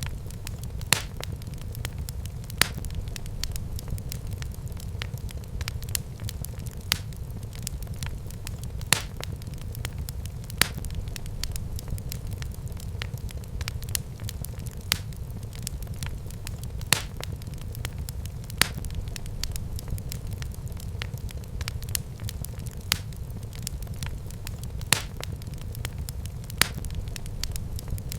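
Wood fire burning in a fireplace: a steady low rumble of flames with sharp crackles and pops every second or two.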